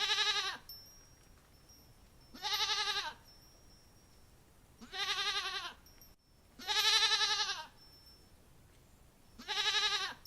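A goat or sheep-type bleat: five quavering, nasal bleats, each under a second long, about two to two and a half seconds apart.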